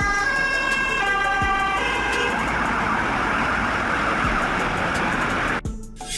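Police car siren sounding a two-tone wail that switches back and forth between two pitches, then giving way to a steady rushing noise as the vehicle moves. The sound cuts off suddenly near the end.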